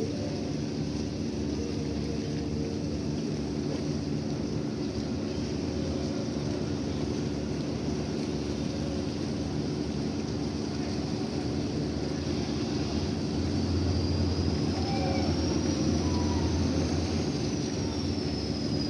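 Steady low drone of a ship's engines, with an even rushing noise over it. The low rumble swells louder for a few seconds near the end, and a faint thin whine rises and falls.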